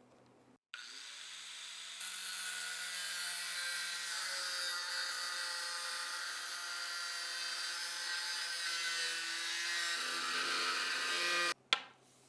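Steady abrasive rubbing from a small tool working a surface, a hiss with a faint motor-like hum beneath it, starting abruptly about a second in and cutting off sharply near the end, followed by one sharp click.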